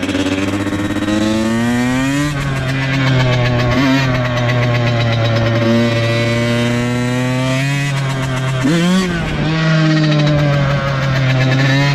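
Dirt bike engine running under way, its pitch rising and falling several times as the rider works the throttle and shifts gears, with a sharp rev about two seconds in and another near the end.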